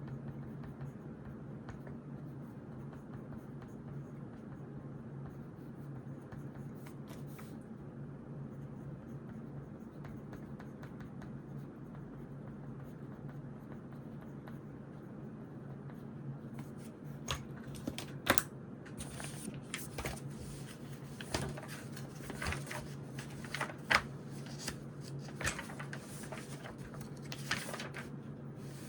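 Steady low room hum, with pen-and-paper sounds at a study desk: faint at first, then from a little past halfway a busy run of sharp scratches, taps and rustles of writing and handling notebook pages.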